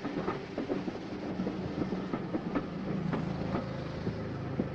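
Train running: a steady rumble with irregular clicks of the wheels over the track, and a low hum that grows stronger about three seconds in.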